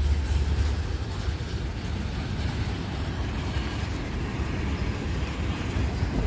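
Double-stack intermodal freight train rolling past: a steady low rumble of the passing container cars on the rails.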